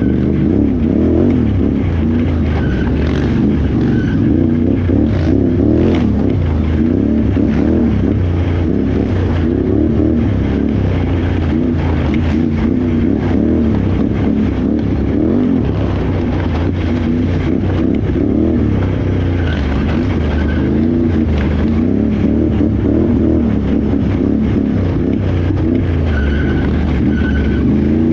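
Can-Am Renegade XXC 1000R ATV's V-twin engine running hard without a break, its pitch rising and falling constantly as the throttle is worked, with scattered short knocks over the top.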